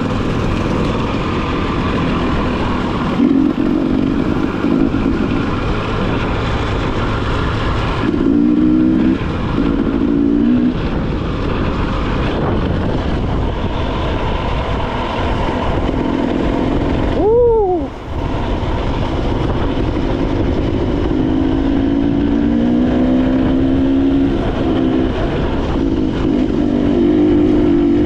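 Motorcycle engine running on the road, its pitch rising and falling with the throttle, over a steady rush of wind noise. About 17 seconds in, the pitch drops sharply and the level dips for a moment.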